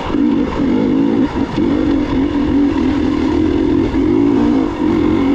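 Gas Gas EX 300 two-stroke dirt bike engine running under changing throttle, its note rising and dipping briefly several times.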